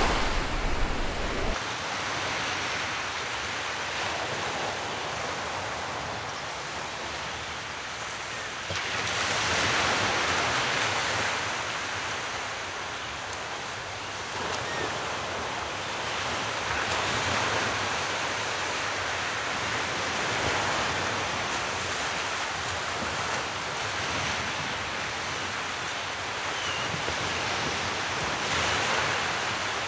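Sea waves washing onto the shore, a steady hiss of surf that swells louder every several seconds as each wave breaks and runs in.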